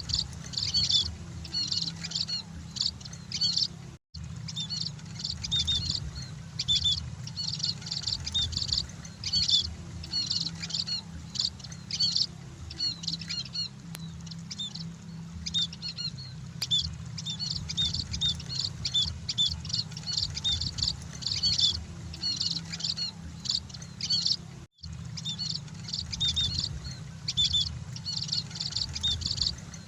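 Munias (emprit) chirping continuously in many short, high overlapping notes, over a steady low hum. The sound cuts out briefly twice, about four seconds in and again near the 25-second mark.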